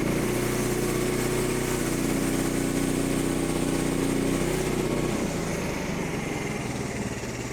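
Small gas engine of a portable bandsaw mill running steadily, its sound changing pitch about five seconds in.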